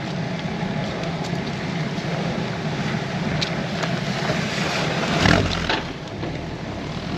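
A Land Rover's engine running slowly just ahead on a steep lane, over wind noise on the microphone. It swells loudest about five seconds in as the bike comes alongside and passes it.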